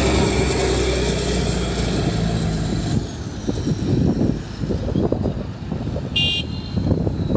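Heavy diesel construction machinery running, with a high whine that falls in pitch over the first three seconds as the engine settles, then a lower, rougher rumble. A short high beep sounds about six seconds in.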